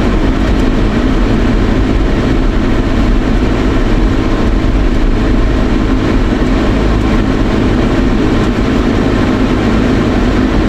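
Steady in-cabin noise of a moving vehicle: engine and road noise running evenly as it drives slowly.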